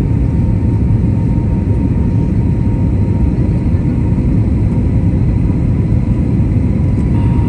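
Steady rumble of an Airbus A320neo in flight, heard from inside the passenger cabin: engine and airflow noise with a faint thin steady tone above it.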